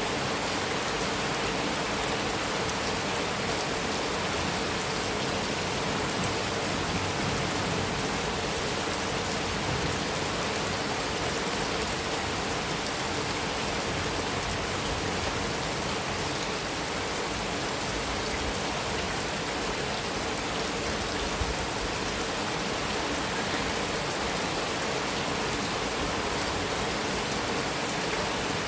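Heavy rain falling steadily on a metal roof, an even hiss without breaks.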